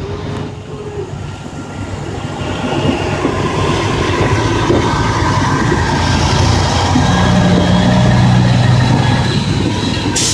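Livestock transport truck and its metal trailer running, a heavy rumbling and rattling that grows louder over the first several seconds, with faint metallic squealing on top.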